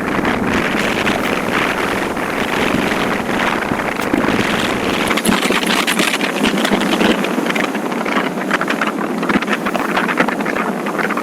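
Steady wind rush over the microphone while riding a motorcycle at speed, with no clear engine note showing through.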